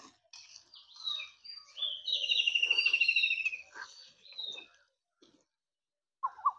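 Small birds calling and singing: high whistled chirps, and a fast trill about two seconds in that lasts around a second and a half and is the loudest part.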